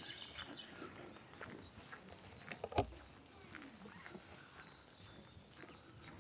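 Songbirds chirping with footsteps walking along a path. Two sharp clicks about two and a half seconds in are the loudest sounds.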